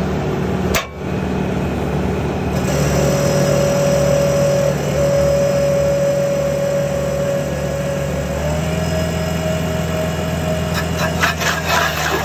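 Stump planer attachment and the engine of the machine carrying it running steadily, with a steady whine that shifts pitch a couple of times. From about eleven seconds in, a rapid crackling and knocking of wood being shredded comes in over it.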